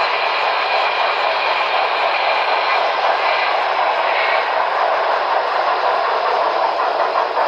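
HO scale model steam train running: a steady, tinny rushing sound with almost no bass.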